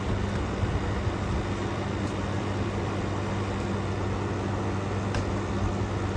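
Air conditioners running in cool mode: a steady low compressor hum under even fan and airflow noise.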